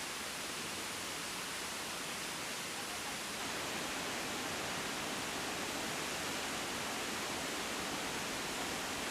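Steady rush of flowing water from a river and waterfall in a rocky ravine, growing slightly louder a little past three seconds in.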